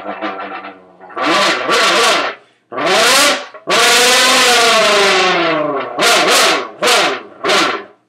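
A V10 engine impression made with the mouth into a big empty Monster Energy can. It starts as a stuttering, idle-like burble, breaks off, then goes into loud rev blips. Near the middle comes one long rev of about two seconds whose pitch climbs and then falls, and three short blips follow near the end.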